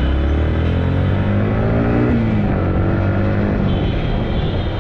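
Yamaha MT-15's single-cylinder engine accelerating hard. Its pitch climbs, drops abruptly about two seconds in at a gear change, then climbs again.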